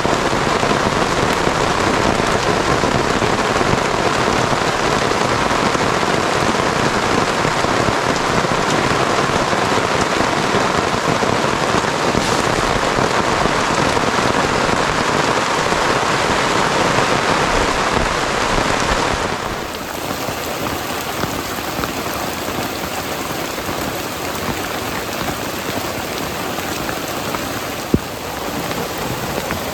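Heavy rain pouring down steadily. About two-thirds of the way through it becomes slightly quieter and thinner. A single sharp click comes near the end.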